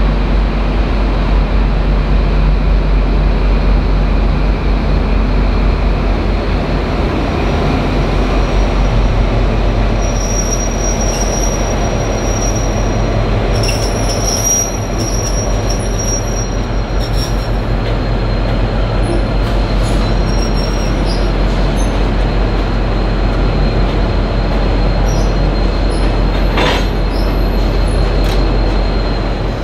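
Diesel-hauled passenger train moving slowly, its locomotive engine running steadily. The steel wheels squeal on the rails several times from about a third of the way in, and there is a sharp knock near the end.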